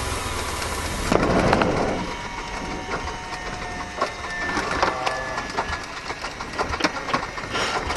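Cockpit handling sounds in a Cessna 152 being secured after shutdown: a steady hiss cuts off about a second in, followed by a string of irregular clicks and knocks from switches and equipment being handled.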